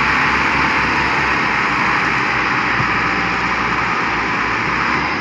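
Diesel tractor engine running hard under heavy pulling load, a low uneven throb beneath a loud, steady rushing hiss.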